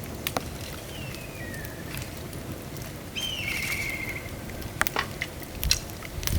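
Bamboo fire crackling with sharp pops, over a steady hiss of rain. A bird calls twice: a short falling whistle about a second in, then a louder call about three seconds in that falls into a quick trill.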